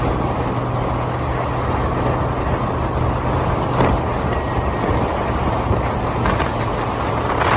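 Motorcycle running steadily at road speed, its engine a steady low hum under wind rushing over the microphone.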